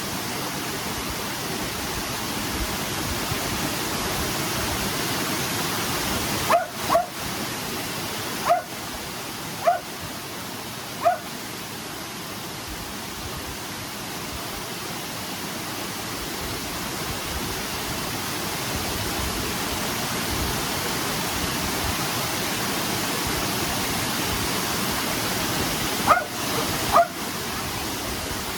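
Steady rush of a creek waterfall, with a dog giving short, sharp barks: five a few seconds in, then two more near the end.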